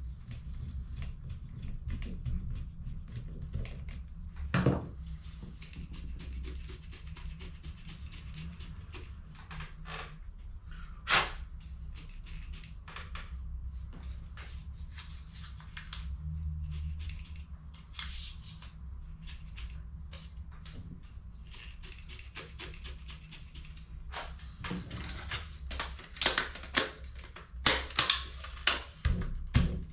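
Small plastic clicks, taps and scrapes from hands working on HP CE285A laser toner cartridges, with two sharper knocks and a quick run of louder clicks near the end, over a low steady hum.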